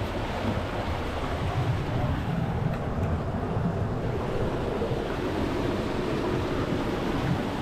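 Steady rush of a waterfall, an even roar of falling water.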